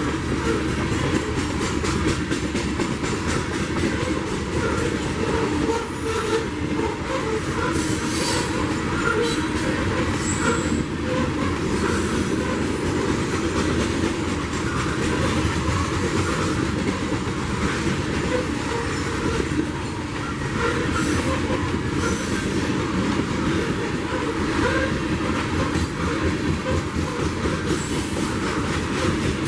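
CSX freight train rolling past, its cars' wheels clattering steadily over the rail joints, with brief high-pitched wheel squeal now and then.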